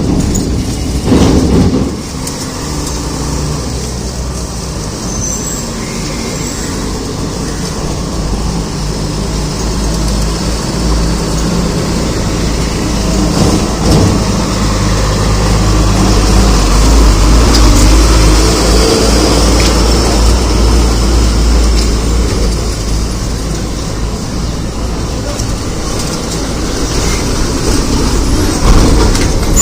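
Diesel engine of a loaded Tata 1615c truck running steadily, with road traffic noise. It grows louder to a peak about two thirds of the way through, then eases off, with brief louder bumps near the start and just before the end.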